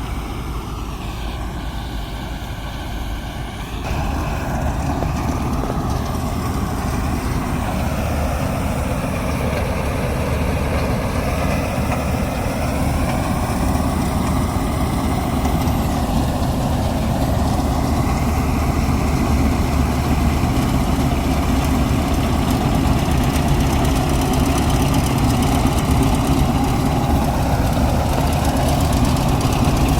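Heavy farm machinery's diesel engine running steadily, getting louder about four seconds in and building slowly after that.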